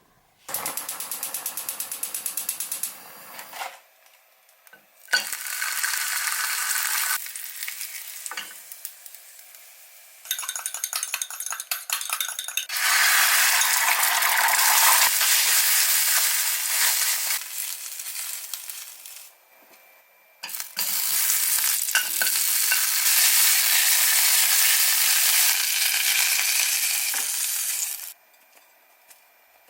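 Food sizzling as it fries in a pan, in several separate stretches with short gaps between them. About ten seconds in comes a run of quick scrapes and clicks, like a spatula stirring in the pan.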